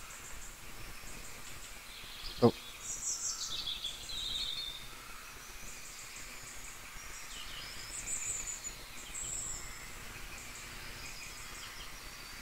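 Birds chirping faintly in the background: a few quick descending calls about three seconds in, then high trilling chirps about eight to nine seconds in.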